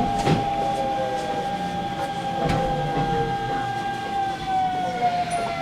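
Hanshin Railway local train slowing to a stop, with a steady whine and a second tone slowly falling in pitch as it decelerates.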